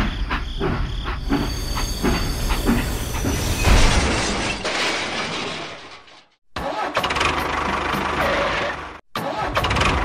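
Engine running, with a string of knocks in the first few seconds and a louder noisy stretch about four seconds in. The sound cuts off abruptly twice, a little after six seconds and at about nine, then starts again.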